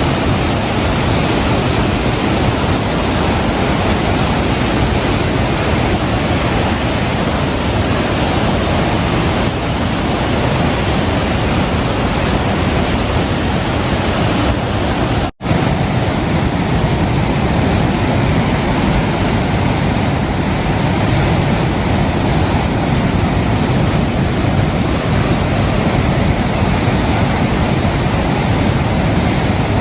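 Loud, steady rushing noise of wind and rain on the microphone outdoors, with a brief cut-out about halfway through.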